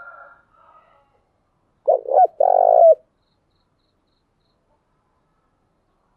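Spotted dove cooing: a faint coo in the first second, then a loud two-note coo about two seconds in, a short note followed by a longer one that falls in pitch at its end.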